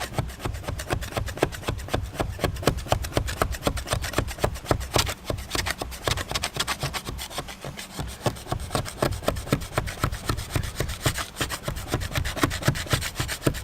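Metal scraper scraping Goof Off-softened carpet adhesive off a boat deck in quick, even repeated strokes; the adhesive is coming off but is still caked on.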